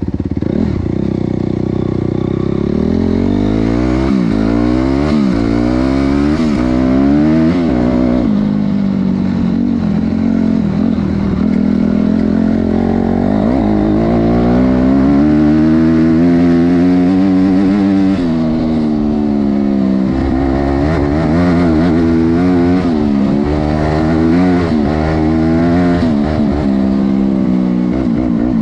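Honda CRF250R's single-cylinder four-stroke engine running hard, its pitch repeatedly climbing under throttle and dropping back, over and over.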